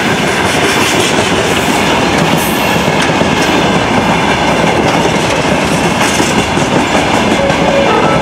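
Freight train's high-sided open wagons rolling past close by, a steady loud rumble with the wheels clattering over the rail joints.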